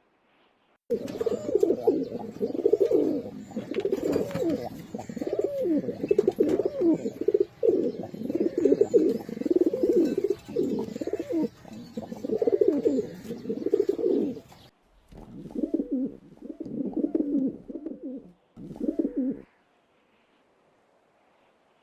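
Pigeons cooing: a dense run of low, warbling coos starts about a second in and cuts off abruptly about two thirds of the way through. Two shorter stretches of cooing follow, then silence.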